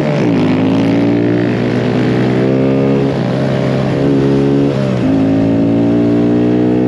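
Small mini-bike engine running under way while riding, its pitch steady with brief dips and recoveries a few times as the throttle eases and comes back on.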